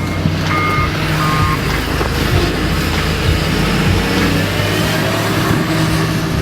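Heavy earthmoving machine's engine running steadily, with its reversing alarm beeping about three times in the first second and a half.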